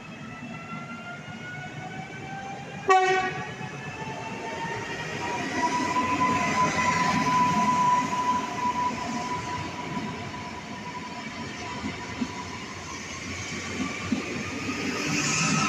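Electric multiple unit running in alongside the platform: the whine of its electric drive falls slowly in pitch, a short horn blast about three seconds in is the loudest sound, and then the wheels rumble past under a steady whine.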